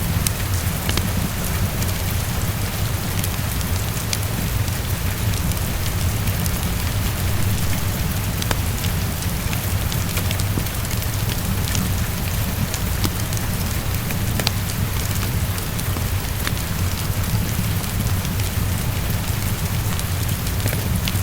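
Steady heavy rain pattering against a window, with a low rumble underneath and scattered sharp ticks throughout.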